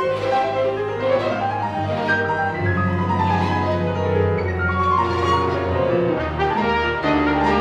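Chamber string orchestra with piano playing classical concert music, a sustained low bass line under moving string and piano parts.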